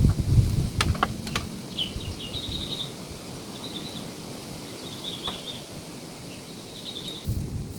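A small bird chirping in short high bursts, repeated every second or so, over a low rumble that is strongest in the first second and fades, then swells again near the end. A few sharp clicks sound about a second in.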